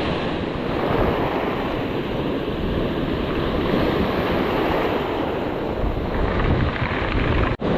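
Ocean surf washing steadily onto the beach, with wind buffeting the microphone in a low rumble. The sound cuts out for a split second near the end.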